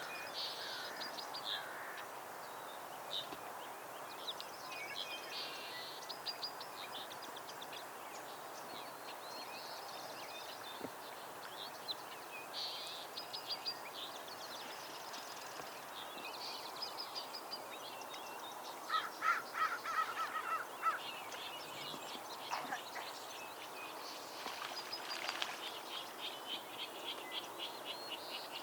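Wild birds calling and singing: many short high trills and chirps over a steady background hiss. The loudest sound is a run of about eight harsher, lower calls a little past the middle.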